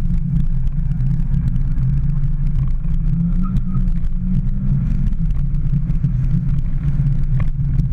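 Mini Cooper S engine and road noise heard inside the cabin while it is driven on track: a steady low drone that rises and falls a little in pitch.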